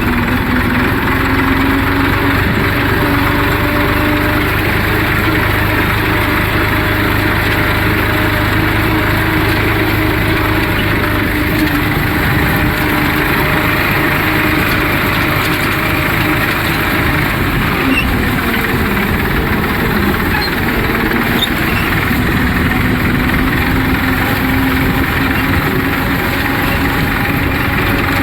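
Massey Ferguson 241 tractor's three-cylinder diesel engine running steadily while working the field, its pitch wavering slightly.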